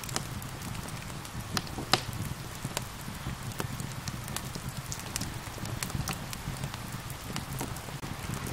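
Wood fire crackling, with irregular sharp pops and snaps, one louder pop about two seconds in, over a steady hiss of gentle rain.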